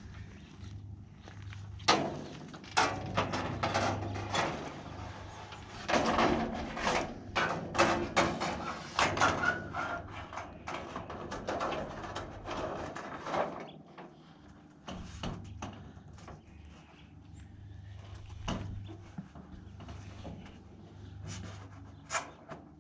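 Irregular knocks and clatter of roofing material being handled and set in place, busiest in the first half and sparser after about fourteen seconds, over a low steady hum.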